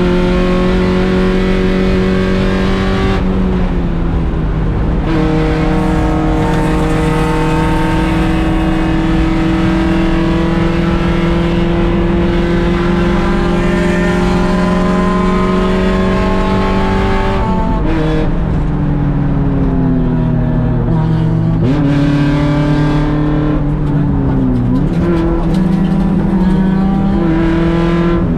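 Mazda Miata's 1.6-litre four-cylinder race engine holding high revs for a long stretch, then the revs fall off about two-thirds through as the driver lifts, and climb again with a quick gear change near the end.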